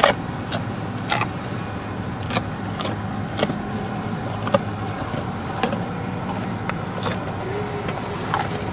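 Car engine idling steadily, heard inside the cabin, with a short sharp click or tap about once a second.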